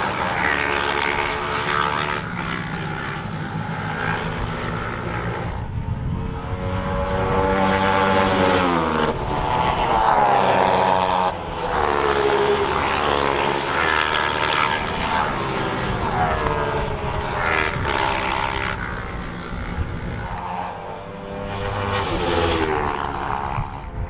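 Racing motorcycles passing one after another at full throttle. Engine pitch climbs as they rev, then drops as each bike goes by, several times over.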